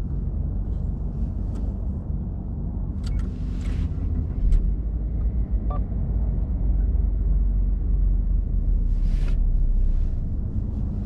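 A Subaru car's flat-four engine idling, heard from inside the cabin as a steady low rumble, with a few light clicks and short hisses.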